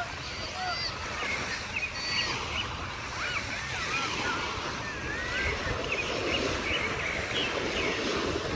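Sea waves washing on a beach, with wind, a steady rushing noise. Many short high squeaky calls, rising and falling, are scattered through it and overlap.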